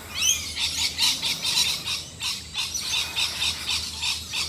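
Wild birds calling and chirping together, a busy chorus of short high calls with a quick run of sweeping calls right at the start.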